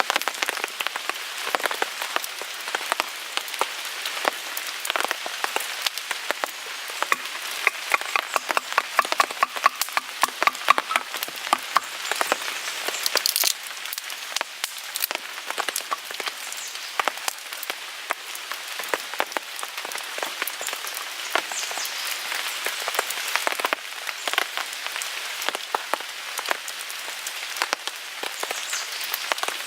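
Wood fire in a Picogrill 398 fire stand crackling and popping, with many sharp snaps that come thickest in the first half, over a steady patter of rain on a tarp.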